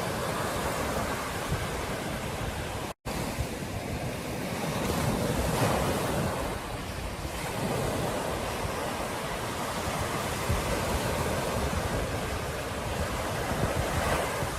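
Ocean surf washing ashore, a steady rush with slow swells as waves break, and wind buffeting the microphone. The sound cuts out completely for an instant about three seconds in.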